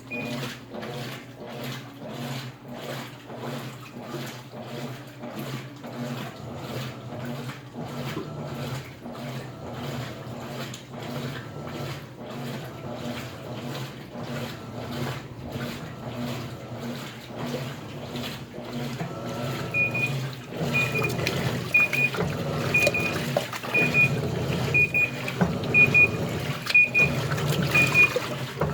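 Washing machines running: a steady motor hum with a regular swish of the agitating drum about twice a second. About two-thirds of the way through, the water churning grows louder and a machine starts beeping about once a second.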